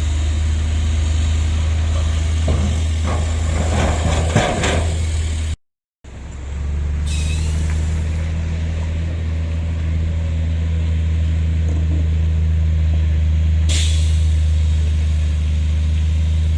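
Heavy diesel earthmoving engines of a Komatsu bulldozer and a dump truck running steadily, with a stretch of clanking and scraping from about two to five seconds. The sound drops out for half a second near six seconds. Two short air hisses from the dump truck's air brakes come at about seven seconds and near fourteen.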